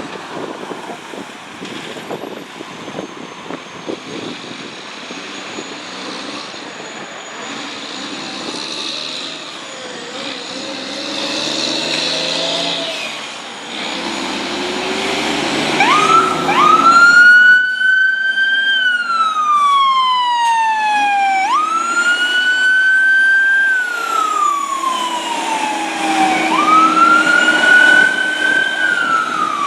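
Fire truck responding to a call: its engine runs for the first half, then its siren comes on about halfway through. The siren wails, rising quickly and falling slowly, about every five seconds.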